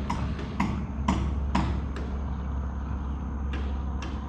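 Spinning reel being cranked to retrieve a small spoon lure, with sharp clicks about two a second, loudest in the first two seconds and fainter again near the end, over a steady low rumble.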